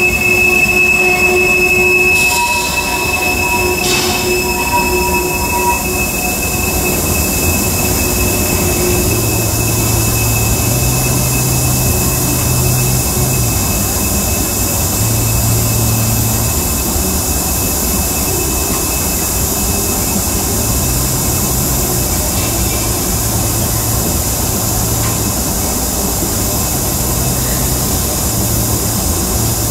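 Tank cars of a freight train rolling past slowly, wheels rumbling steadily on the rails. A high, steady wheel squeal sounds over the first few seconds and dies away.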